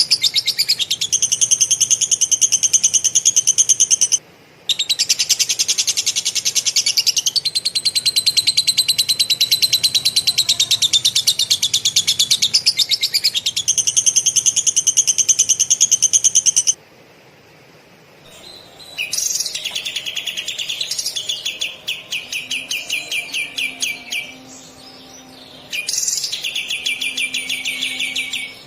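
Songbird giving long, very fast rattling trills, a lovebird-style rolling chatter, in runs of several seconds with a short break about four seconds in and a longer pause past the middle, followed by shorter trilled phrases.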